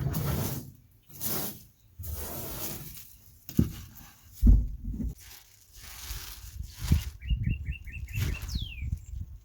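Rustling, scraping and a few heavy knocks of hands-on work, the loudest knock about halfway through. Near the end a bird gives five quick chirps and then one falling whistle.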